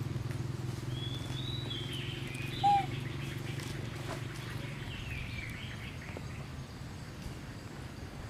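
A bird twittering in the background in short falling phrases from about a second in until about six seconds, over a steady low hum. One short, loud call cuts in about a third of the way through.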